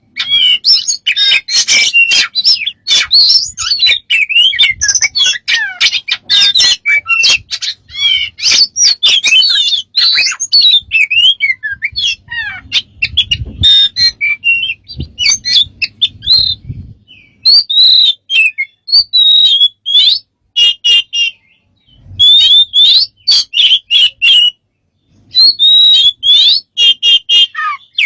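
A bird calling in a fast, varied stream of chirps, whistles, clicks and squawks, the kind of mixed strange repertoire a clever mimicking bird makes. There are short pauses about two-thirds of the way through and again near the end, and a faint low rumble in the middle.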